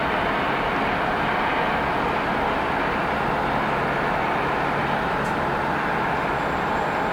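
Jet airliner engines running, a loud, steady rushing noise that holds without change.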